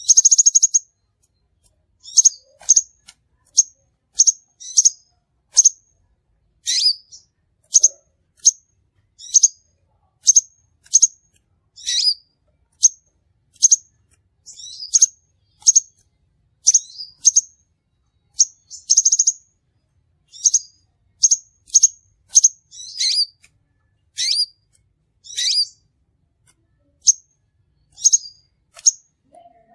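Crimson sunbird calling: a steady series of short, high, sharp chirps, about one or two a second, opening with a brief buzzy trill.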